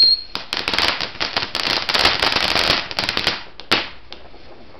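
Firework crackling: a high whistle cuts off just after the start, then a rapid, dense run of crackles and pops lasts about three seconds, with one sharper pop near the end.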